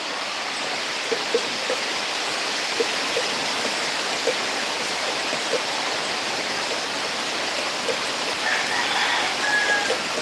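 Heavy rain pouring steadily, with irregular louder drips landing close by.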